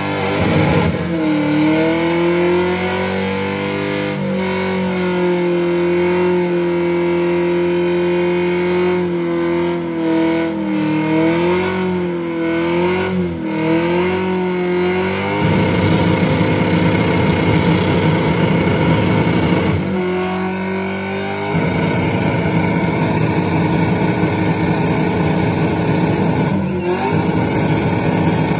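A car engine revved hard and held at high revs for a long stretch, its pitch wavering slightly. About halfway through, the sound turns rougher and noisier, clears briefly, then turns rough again.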